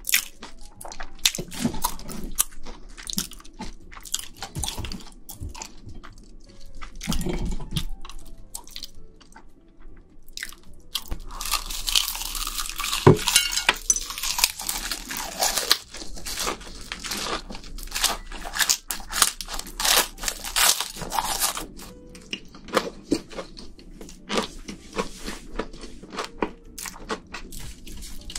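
Close-miked crunching and chewing of crisp deep-fried breaded shrimp, many sharp crackles with bites, the crunching thickest in the middle.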